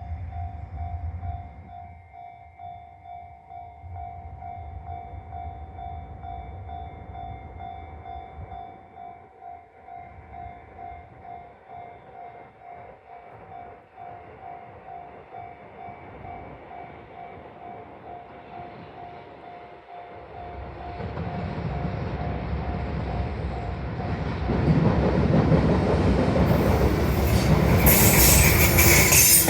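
JR Freight EH500 electric locomotive hauling a container freight train, approaching and growing louder from about two-thirds in, then loud as it passes near the end with wheels clacking over the rail joints. Through the quieter first part a steady pulsing ringing tone sounds.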